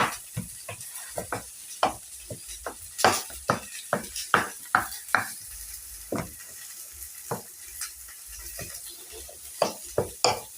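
A utensil knocking repeatedly against its container as food is mashed, a couple of irregular strokes a second with a short lull in the second half. Under it, onions sizzle steadily in hot cooking oil.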